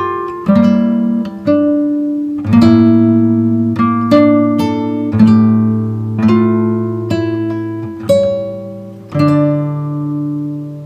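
Background music: acoustic guitar picking notes and chords, each ringing and fading.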